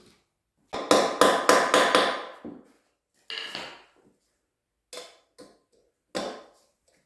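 Hammer blows on metal: a quick run of strikes lasting about two seconds, then four single blows spaced out. The hammering is trying to free stubborn fasteners on a motorcycle wheel.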